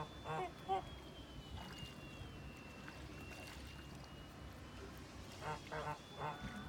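Domestic waterfowl calling: a quick run of short, repeated honking calls at the start and another run near the end.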